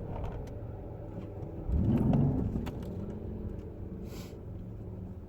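Car engine running, with a louder swell about two seconds in whose pitch rises as the engine revs up.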